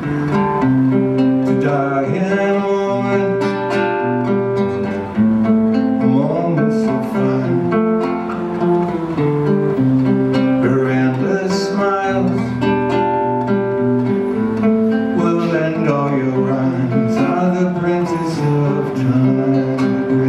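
Acoustic guitar playing an instrumental passage, a run of plucked and strummed notes changing pitch at a steady pace.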